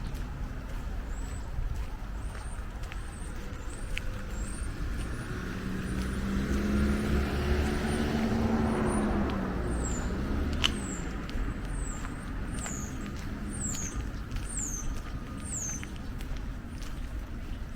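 A car drives past: engine hum and tyre noise build to a peak about halfway through, then fade away. Throughout, a songbird repeats short, high chirps, which become sharp falling notes in the second half.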